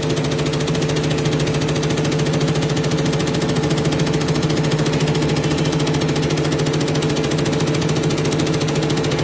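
Computerized embroidery machine stitching steadily, its needle mechanism running in a fast, even rhythm with a constant motor hum.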